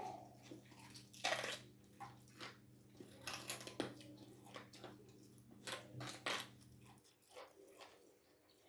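Close-up eating sounds: chewing and crunching on boiled bones, an irregular string of sharp crunches and clicks. A low steady hum underneath cuts out about seven seconds in.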